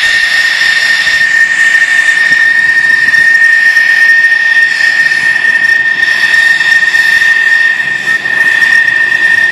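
F-16 jet engine running steadily: a constant high whine, unchanging in pitch, over a rushing roar.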